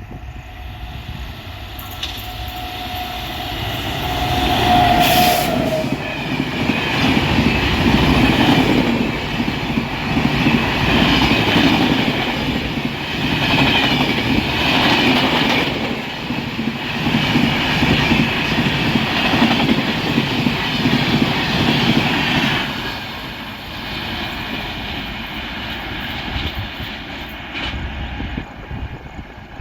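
An Indian Railways express train passing at speed behind an electric locomotive. A single horn note sounds for a few seconds as the train approaches, then a long loud stretch of rhythmic wheel clatter over the rail joints, fading away near the end.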